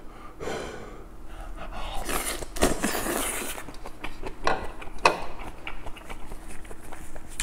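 Close-miked eating of a mouthful of kimchi and pork belly: wet chewing and lip smacks, with a noisy slurp or breath a couple of seconds in and short sharp smacks through the rest.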